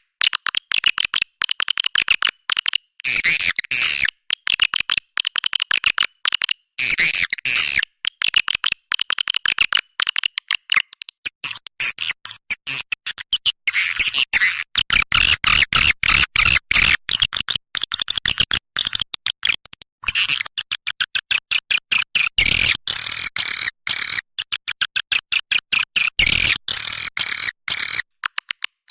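Swiftlet calls played as a lure recording for a swiftlet nesting house: fast, dense chattering chirps and clicks with only brief gaps.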